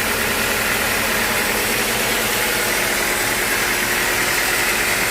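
Sawmill machinery running steadily, a constant mechanical drone with a high steady whine over a wide hiss.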